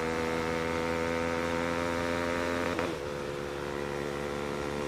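Bajaj Pulsar NS200's single-cylinder engine running through an aftermarket SC Project exhaust at a steady, even note while riding; about three seconds in the note drops slightly in pitch and gets a little quieter.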